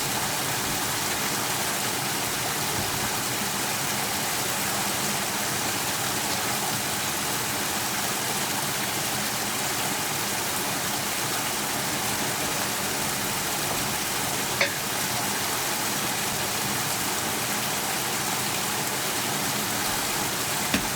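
A steady, even hiss, with a single sharp click about fifteen seconds in.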